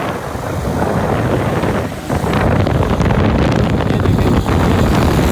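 Wind buffeting the microphone of a moving motorbike, a loud, steady low rumble of rushing air and riding noise.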